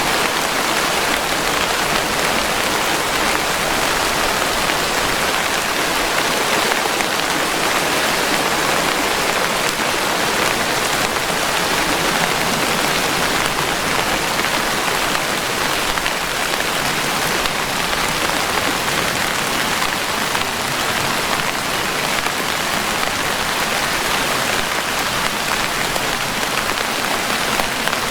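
Steady rainfall: an even, unbroken hiss of many raindrops striking a surface, with no rise or fall in strength.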